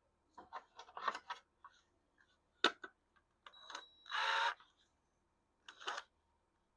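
Scattered light clicks and knocks of tools and small parts being handled at a workbench, with one brief burst of rushing noise about four seconds in.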